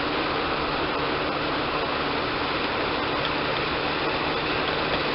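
Portable bandsaw sawmill's engine running steadily at an even pitch.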